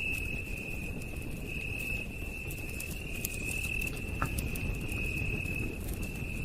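Night insects trilling on one high, steady note that swells and fades about once a second, over a crackling campfire with scattered sharp pops and a low, constant rush.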